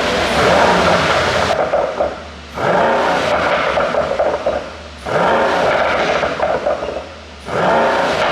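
Mercedes-AMG E63's twin-turbo V8 being revved in four blips, each about two seconds long and starting roughly every two and a half seconds. Each rev falls away with a burst of pops and crackles on the overrun, produced by a tune made for exhaust pops.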